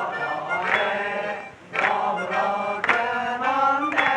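Several men singing a Japanese folk-style song together, with a sharp percussive beat about once a second. There is a short break between phrases about one and a half seconds in.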